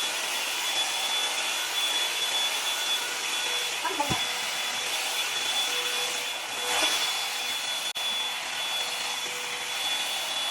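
Revlon One-Step hair dryer brush blowing steadily while it is worked through hair: an even rush of air with a steady high motor whine. The sound drops out very briefly about eight seconds in.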